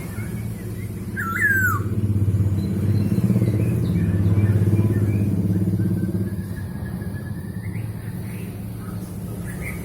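A motor vehicle's engine running close by, its sound swelling to a peak a few seconds in and then easing off as it passes. A bird gives a short gliding call about a second in, with faint chirps later.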